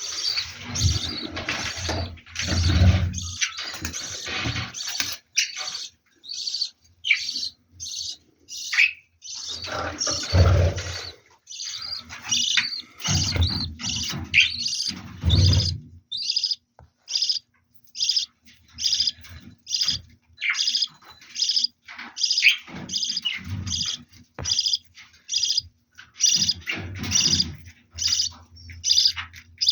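Budgerigars chirping in a steady stream of short, quick calls, several a second. A few louder noisy stretches, some reaching low in pitch, come in the first few seconds and again around ten and fifteen seconds in.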